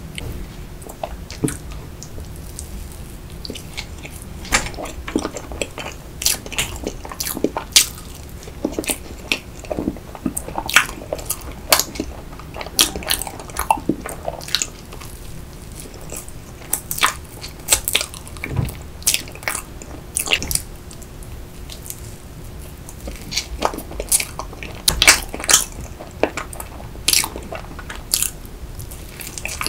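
Close-miked mouth sounds of eating rainbow layer sponge cake: chewing with many short mouth clicks and smacks, coming in clusters with brief pauses between bites.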